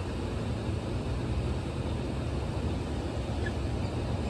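Passenger train rolling past: a steady low rumble with rushing noise.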